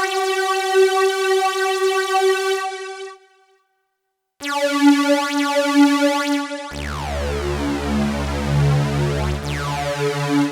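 Jeannie polyphonic DIY synthesizer playing demo patches. A held note with a slight upward glide at its start fades out about three seconds in. After a short silence a second held note sounds, and a couple of seconds later a deeper, thicker chord with strong bass enters, with a sweeping, falling sound on top.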